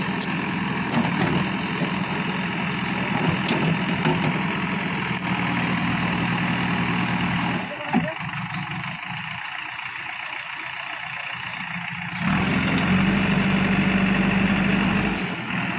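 Heavy diesel machinery engine running steadily. It drops quieter with a click about eight seconds in, then runs louder with a deeper hum from about twelve seconds until shortly before the end.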